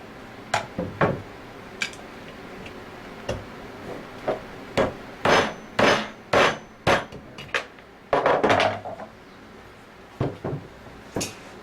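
Sharp, irregular metal knocks and scrapes from a screwdriver being forced against the shaft seal of an Anest Iwata scroll compressor to pry it out. The strikes come thickest in the middle.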